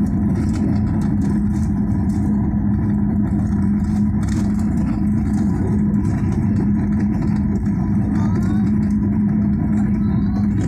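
Steady engine and airflow rumble of an airliner heard from inside the passenger cabin, with a constant low hum.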